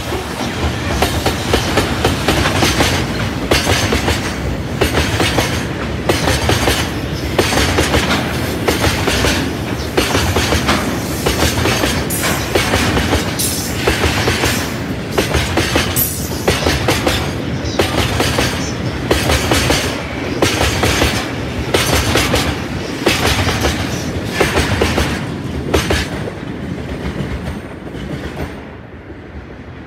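Freight train of tank wagons hauled by an EF210 electric locomotive passing through a station, its wheels clattering over the rail joints in a steady, even clickety-clack as wagon after wagon goes by. The clatter fades away near the end as the last wagon passes.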